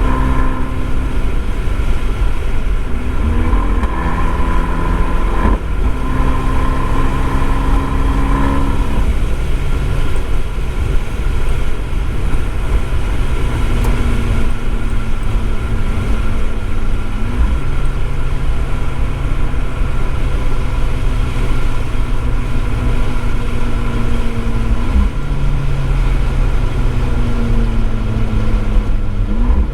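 Abarth 595's turbocharged four-cylinder engine breathing through an Akrapovič exhaust, heard from a microphone in the boot while the car accelerates hard. The engine note climbs steadily and drops back several times as it shifts up through the gears, over a steady haze of road noise.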